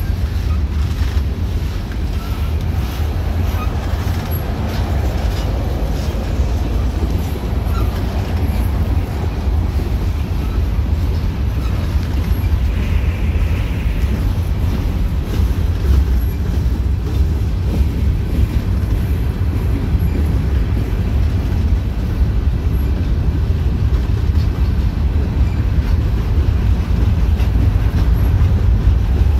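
Freight train of boxcars and covered hopper cars rolling past close by: a steady rumble of steel wheels on the rails with faint repeated clicks.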